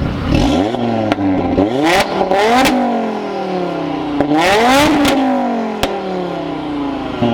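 Car engine being free-revved four times, each rev climbing quickly and falling back slowly toward idle, with a couple of sharp cracks in between.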